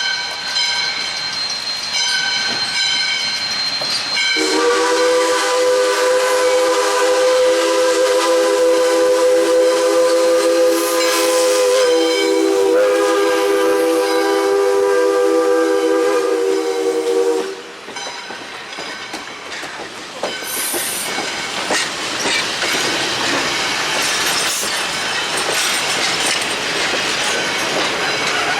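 A high, steady squeal for the first four seconds, then a steam locomotive's chime whistle blows one long chord of several tones for about thirteen seconds. After it stops, the rumble and clatter of the moving train.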